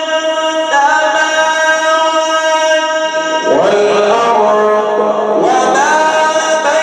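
A male reciter's voice holds a long melodic note in mujawwad Quran recitation, stepping up in pitch about a second in, then starting a new phrase about halfway through that slides upward.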